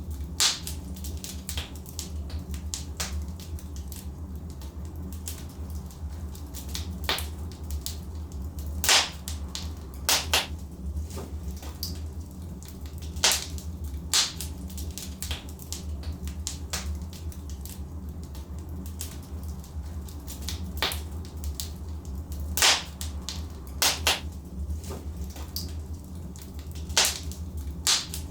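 Logs burning in a fireplace, crackling with irregular sharp pops, a few of them loud, over a steady low rumble.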